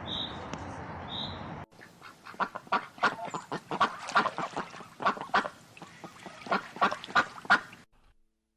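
Waterfowl, several birds calling in quick short calls, several a second, for about six seconds before stopping abruptly. Before them, a steady rushing noise with a few short high chirps cuts off about two seconds in.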